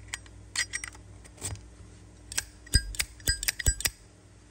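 Zippo lighters' metal cases being handled: a few sharp clicks in the first half, then a quick run of ringing metallic clinks in the second half.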